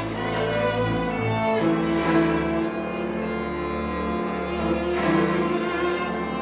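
A string chamber ensemble playing live: violin and cello on held melodic notes over a deep bowed bass line that steps to new notes every second or two.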